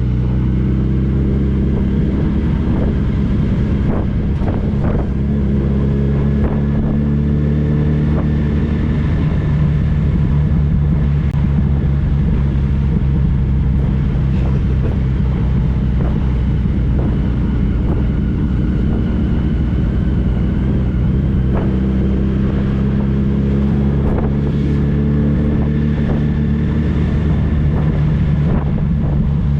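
Motorcycle engine, the inline-four of a Yamaha FJR 1300, running steadily while riding, its pitch drifting slowly up and down.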